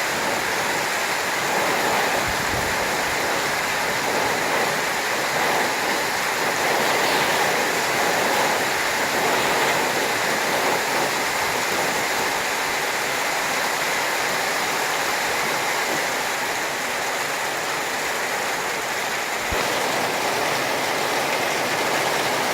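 Steady rushing hiss of a heavy storm: rain pouring down and flash-flood runoff streaming across the ground.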